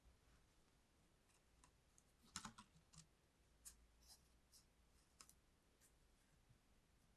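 Faint, scattered small clicks and taps, about a dozen irregularly spaced, the loudest a short cluster about two and a half seconds in, over near silence.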